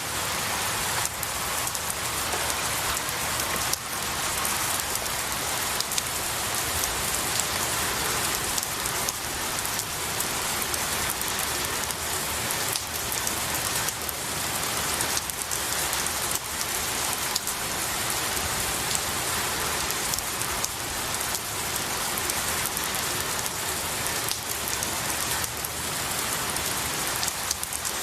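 Steady rain falling on pine needles and trees, a dense even hiss with countless individual drop taps.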